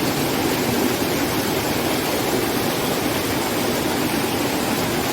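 Steady, loud rush of fast-flowing, knee-deep river water pouring over rocks at a small waterfall.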